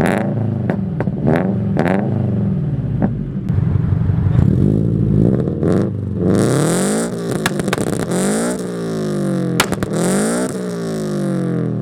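Car engine being revved over and over, its pitch climbing and dropping with each blip. Later on, bursts of hiss come with some of the revs, and a few sharp cracks sound near the end.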